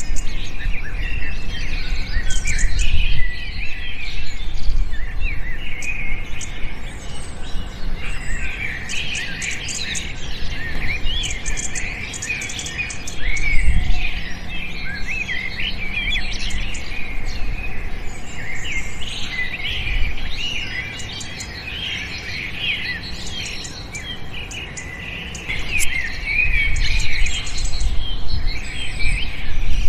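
Many small birds chirping together in a dense chorus of short, overlapping high chirps and quick glides, with a low rumble now and then underneath.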